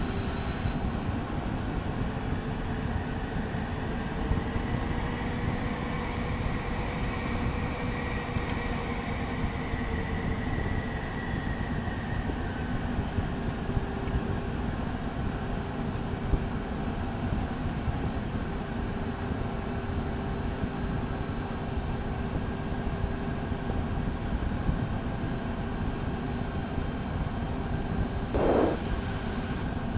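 Beechcraft Premier I's twin Williams FJ44 turbofans running, heard from inside the cockpit: a steady rumble and whine. In the first dozen seconds a tone rises and falls slowly, after which a steady hum holds. A short burst of noise comes near the end.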